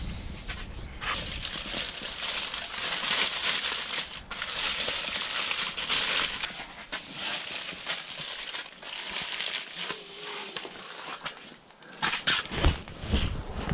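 Crinkling and crumpling of a wrapper being handled, lasting most of the time, followed by a few sharp knocks near the end.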